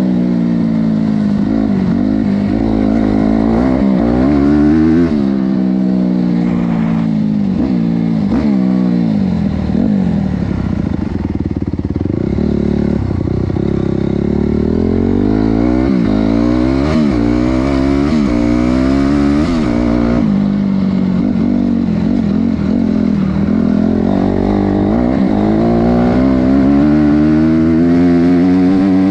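Honda CRF250R's single-cylinder four-stroke engine being ridden hard, its pitch climbing and dropping again and again as it is revved up and eased off.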